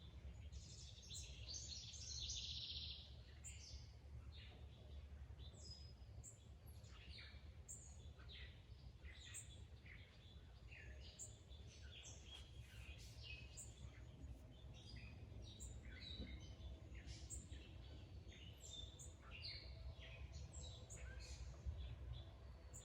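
Faint birdsong: several small birds chirping with short, high calls throughout, and a louder, denser chattering call about one to three seconds in, over a steady low outdoor rumble.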